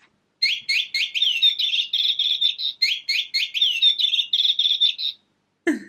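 Jolly Moggy Talking Bird cat toy playing a recorded clip of bird chirping: a quick run of high twittering chirps that seems to play through twice, then stops. Near the end there is a short sound falling in pitch.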